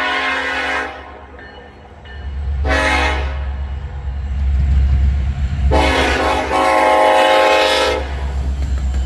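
Diesel locomotive air horn sounding a grade-crossing signal, the lead EMD SD70ACe of an intermodal train: a long blast ends about a second in, a short blast follows, then a long blast of about two seconds, finishing the full long-long-short-long crossing sequence. Underneath, the low rumble of the approaching train builds.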